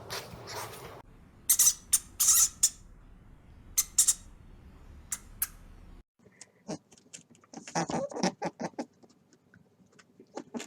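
Short, sharp high-pitched squeaks and clicks from a small animal, with a quick run of short calls in the second half.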